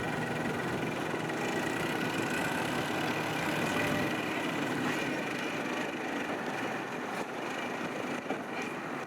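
Boat engine of a Robalo walkaround running steadily as the boat passes, a gentle drone with a slight easing off in level near the end.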